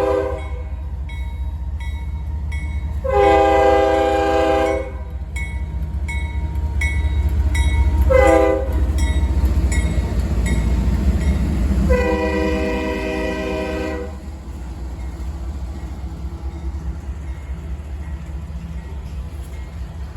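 Diesel locomotive horn blowing the grade-crossing signal: the tail of a long blast, then a long, a short and a long blast, over the steady low rumble of the locomotive. A faint high ding repeats about twice a second through the first half.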